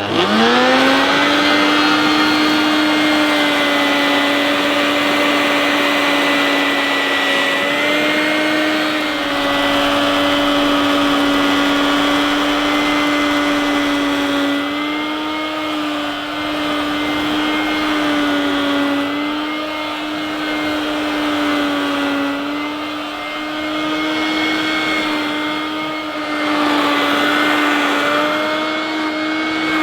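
Hoover Dustvac S1262 mains-powered handheld vacuum cleaner switched on, its motor whining up to speed within about a second and then running steadily, its pitch dipping and rising slightly as it sucks up sand and rolled oats. The motor sounds rough and rattly, noisier and more vibratory than it should: a worn, tired motor.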